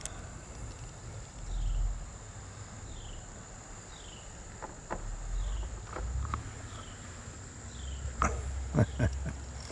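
Insects droning steadily on one high note, with a short falling call repeating about once a second. A few sharp knocks come near the middle and near the end, over bumps of low rumble.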